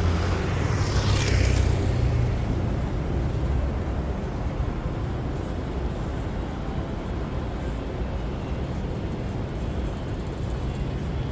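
City street traffic: a vehicle passes close in the first two seconds, its hiss sliding down in pitch as it goes by, then a steady low traffic rumble.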